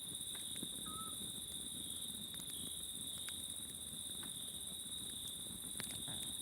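Crickets chirring steadily with a higher insect drone above them, and a wood campfire giving scattered small crackles. About a second in comes a single short whistled call of a small owl.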